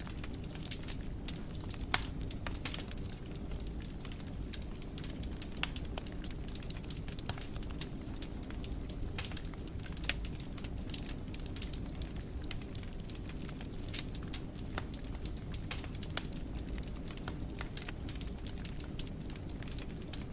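Fireplace fire crackling: frequent sharp pops and snaps over a low, steady rumble of the flames. The loudest pops come about two seconds in and about ten seconds in.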